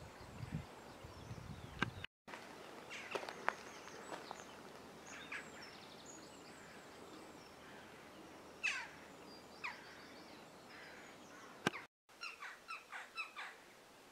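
Birds chirping in outdoor ambience: scattered short calls, then a quick run of about six chirps near the end. The background cuts out briefly twice.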